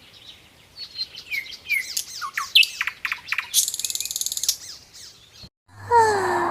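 Small birds chirping and tweeting: a run of quick up-and-down chirps, then a fast high trill about halfway, and a lower falling call near the end.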